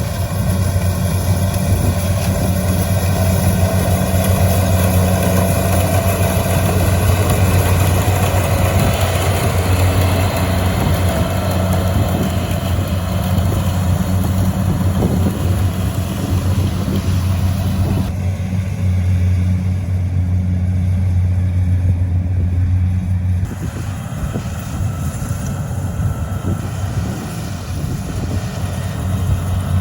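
An engine running steadily at a constant speed with a deep, even hum, which drops somewhat about three-quarters of the way through.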